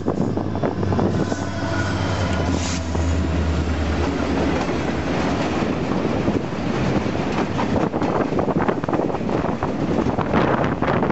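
Two Union Pacific diesel locomotives go by at speed with a low engine drone that fades after about four seconds. It gives way to the steady rattle and clatter of empty double-stack well cars rolling past.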